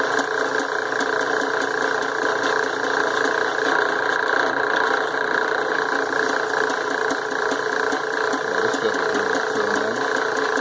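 Small drill press running steadily, its motor giving an even hum, while drilling a hole into a steel Damascus billet.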